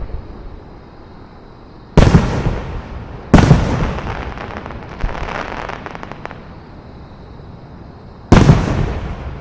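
Aerial fireworks bursting: three loud booms, about two seconds in, a second later, and near the end, each trailing off, with a patch of crackling between the second and third.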